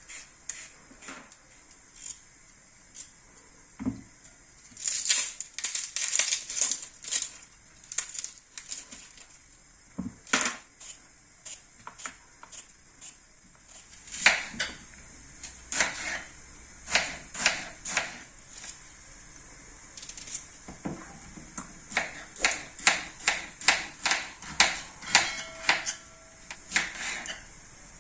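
Close kitchen handling sounds: sharp taps, clicks and knocks, irregular at first, with a busy spell a few seconds in and a run of quick even taps, about two a second, in the last several seconds.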